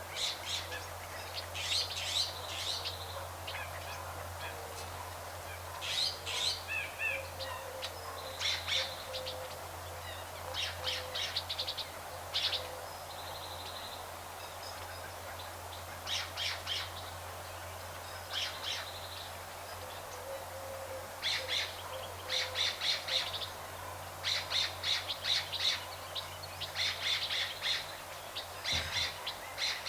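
Birds chirping: repeated short bursts of quick, high notes, some as rapid trills, coming every second or two, over a faint steady low hum.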